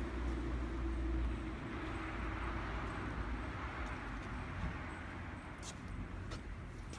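Kawasaki Z400GP motorcycle engine running after being started: a low, steady note that is a little stronger for the first second or so, then settles to an even idle. Two faint clicks come near the end.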